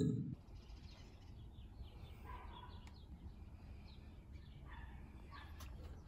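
Faint, scattered small-bird chirps over a steady low background rumble.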